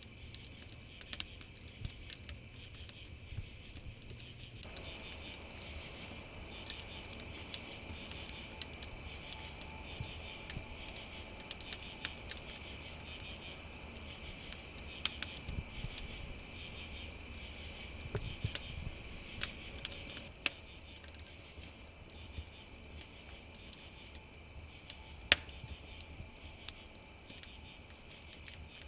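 Crickets chirring steadily in a night chorus, over a wood campfire crackling with scattered sharp pops. The loudest pop comes near the end.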